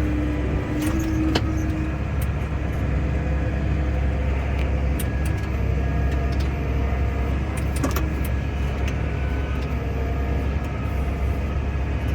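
Case 140 tractor's diesel engine running steadily, heard from inside the cab as a low drone, with a couple of sharp clicks.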